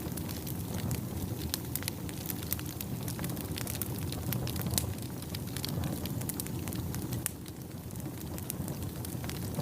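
Wood fire crackling: many sharp pops and snaps, irregularly spaced, over a steady low rush of flames.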